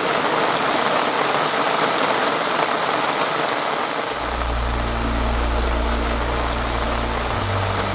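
Steady rain falling, a dense even hiss of drops. About halfway through, a low steady hum comes in underneath.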